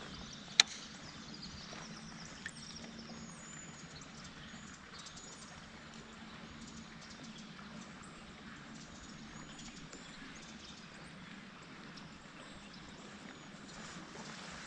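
Quiet outdoor ambience with a steady faint low hum, broken by one sharp click about half a second in and a smaller tick a couple of seconds later.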